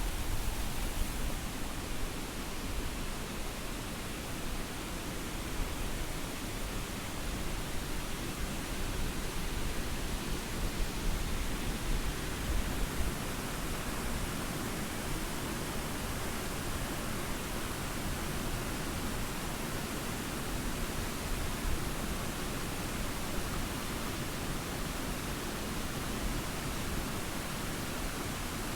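Steady rushing of falling water at the Triberg waterfall, an even noise with no breaks.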